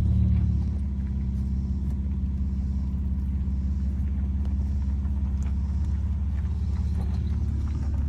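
Honda Accord V6 engine running, a steady low rumble heard from inside the car's cabin, a little louder in the first half second.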